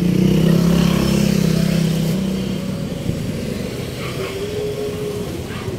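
A motor vehicle's engine running close by in street traffic, loudest in the first two seconds and then fading as it passes. A brief higher steady tone follows about four seconds in.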